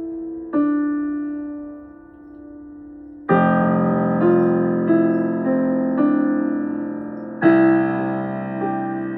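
Slow piano music: sustained chords struck every few seconds and left to ring and fade, with a fuller, louder chord a little after three seconds.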